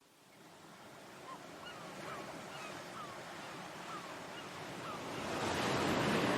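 Surf or rushing wind-and-water noise fading in, with a bird giving short downward chirps about twice a second; the rush swells louder about five seconds in.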